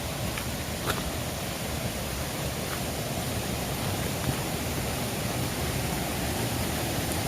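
Mountain stream rushing after rain: a steady, even wash of water, with a few faint clicks now and then.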